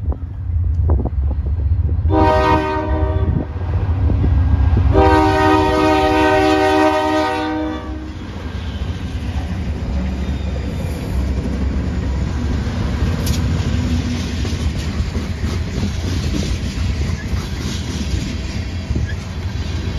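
Diesel freight locomotives passing close, their horn sounding a short blast about two seconds in and a longer blast about five seconds in, over the low rumble of the engines. Then the steady rolling clatter of tank cars on the rails as the train goes by.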